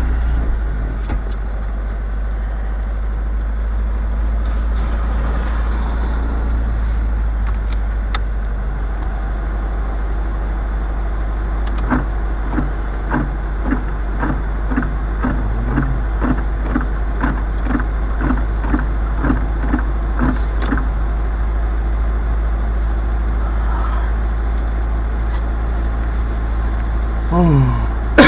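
Car driving: steady low engine and road rumble, with a regular ticking about twice a second for roughly nine seconds midway.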